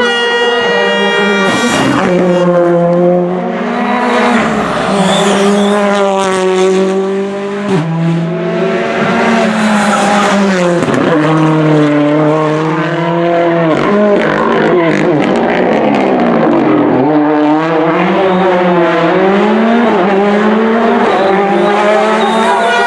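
Rally car engine at full throttle, revving hard through the gears: the pitch climbs, then drops sharply at each upshift, over and over, with swoops where it lifts off and brakes for corners.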